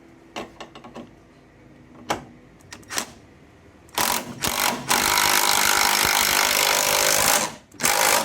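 A few tool clicks, then a power tool runs hard for about three and a half seconds, starting about four seconds in, spinning off one of the bolts that temporarily held the strut's top mount.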